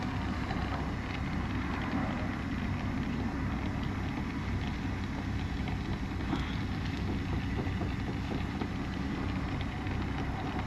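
Brazing torch flame burning steadily against a copper refrigerant pipe while silver solder is worked over a leak, a continuous even rushing noise.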